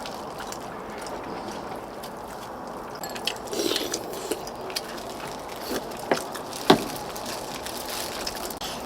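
Eating sounds from a bowl of pork-bone stew: a wet slurp of broth about a third of the way in, then a few sharp clicks of utensils against the bowl, the loudest near the end, over a steady background hiss.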